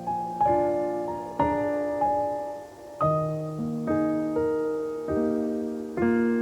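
Solo piano playing a slow, gentle melody over soft chords, each note struck and left to ring and fade before the next, about one or two a second.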